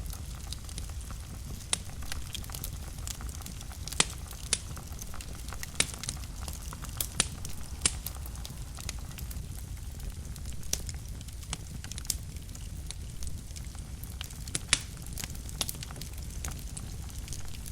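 Wood fire burning in a fireplace: a steady low rumble of flames with irregular sharp crackles and pops scattered throughout, a few of them louder than the rest.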